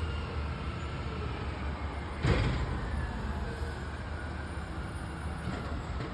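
Garbage truck's diesel engine running steadily as it approaches, with a faint whine and one brief sharp noise about two seconds in.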